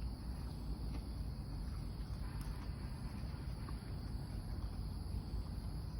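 A steady, high-pitched chirring of insects, typical of crickets, over a low background rumble, with a few faint ticks.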